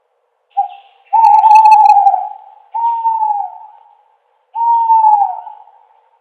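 Owl hooting: a short hoot, then three long, clear hoots, each sliding down in pitch as it fades.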